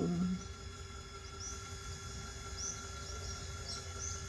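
Faint, scattered short bird chirps, several high tweets a fraction of a second to a second apart, over a steady electrical hum.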